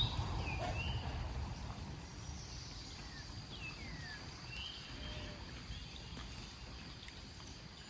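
Small birds chirping faintly and intermittently, short rising and falling calls, over a faint steady high tone, with low rumbling noise that dies away in the first couple of seconds.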